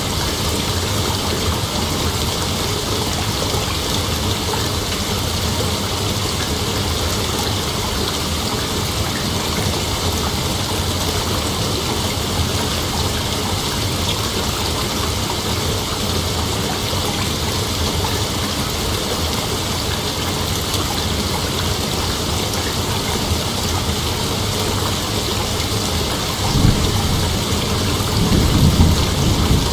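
A steady, even hiss like falling rain, with a low rumble swelling up near the end.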